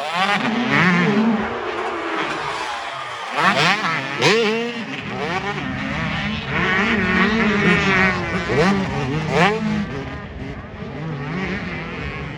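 Several motocross race engines running hard, with repeated quick revs that climb and drop sharply as the throttle is worked; the sound eases off near the end.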